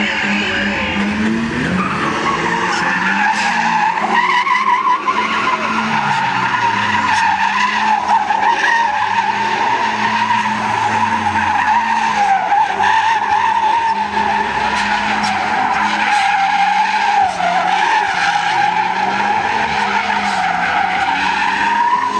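A car's tyres squealing continuously in a long burnout, the pitch wavering slightly, over the engine held at high revs.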